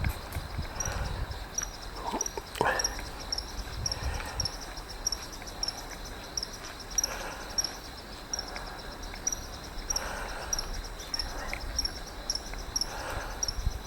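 Cricket-type insect chirping in a steady, even run of short high chirps, over a low rumble, with a couple of sharp clicks about two and a half seconds in.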